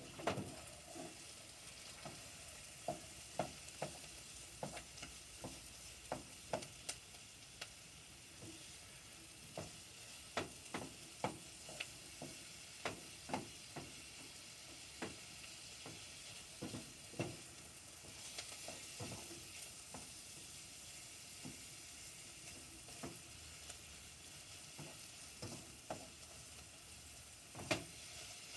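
Food sizzling in butter in a pot, with a spatula scraping and knocking against the pot at irregular moments as it is stirred. The sizzle runs steadily underneath, and the sharpest knock comes near the end.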